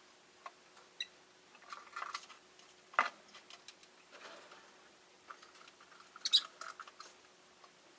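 Rosy-faced lovebirds in their cage: scattered short chirps amid clicks and scratching as the birds move about, with a sharp knock about three seconds in and a brief louder cluster of chirps about six seconds in.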